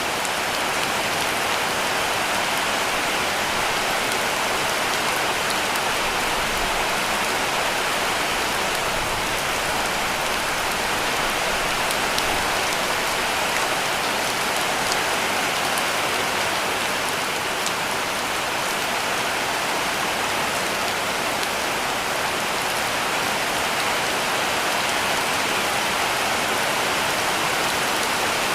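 Heavy rain falling steadily on a cabin roof: an even, unbroken hiss with a few sharper drop ticks scattered through it.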